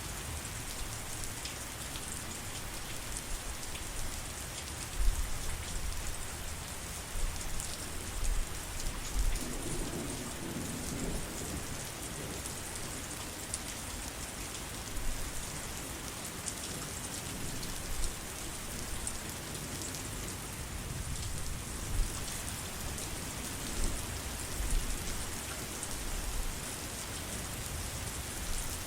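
Steady heavy rain falling on foliage and surfaces, a constant hiss of drops, with low rumbles of thunder swelling a few times.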